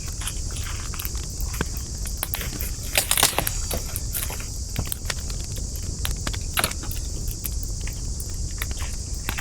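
Burning campfire wood crackling, with irregular sharp pops throughout; the loudest cluster of pops comes about three seconds in. Underneath run a steady high hiss and a low rumble.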